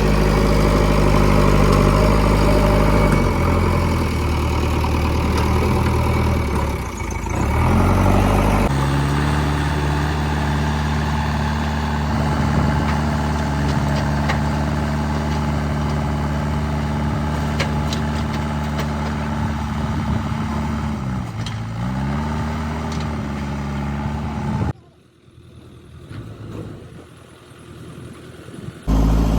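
Diesel engine of a JCB 3DX backhoe loader running steadily, its note changing abruptly several times. About 21 seconds in the engine speed dips and recovers, as if briefly taking load. Near the end the engine sound drops much quieter for about four seconds, then returns.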